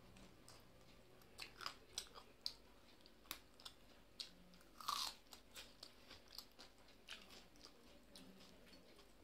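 A person chewing and crunching food close to a clip-on microphone: scattered short, wet mouth clicks, with one louder crunch about five seconds in.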